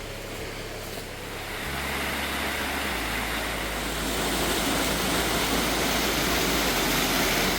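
Waterfall rushing: a steady hiss of falling water that grows louder about two seconds in and again a little later.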